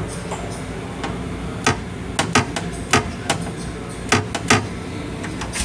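A series of about seven sharp, irregular knocks and clacks, spaced a few tenths of a second to half a second apart, over the steady low hum of an M7 electric rail car.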